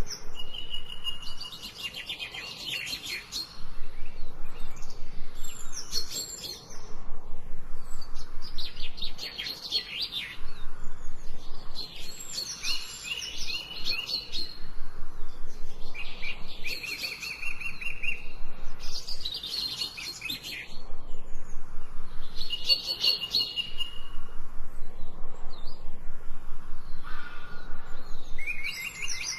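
A songbird singing: phrases of rapid trills and chirps, repeated every few seconds with short pauses between.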